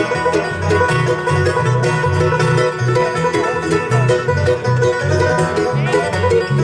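Live band playing an instrumental passage in a bluegrass-country style: fast picked strings over a steady bass beat.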